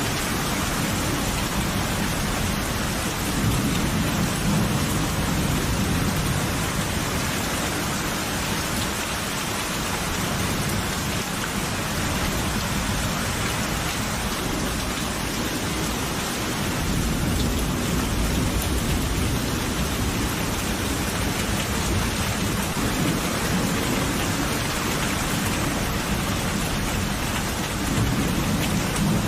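Steady rain falling, with low rolling thunder that swells a few seconds in and again from a little past halfway.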